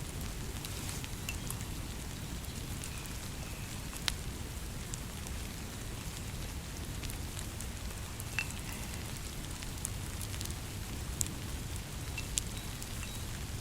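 Steady rain with a campfire crackling, scattered sharp pops and ticks over a continuous low rumbling hiss.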